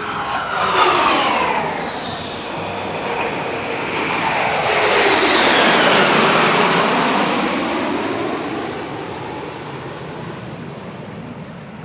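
Jet aircraft passing by, their engine whine and rush dropping in pitch as they go past: a first pass about a second in, then a longer, louder one peaking around six seconds and fading away.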